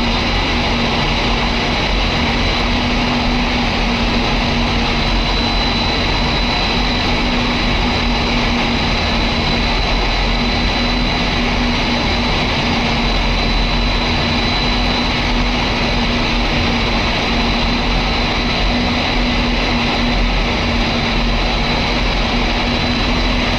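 Large natural-gas-fired commercial steam boiler firing: a loud, steady noise with a constant low hum and a thin high whine.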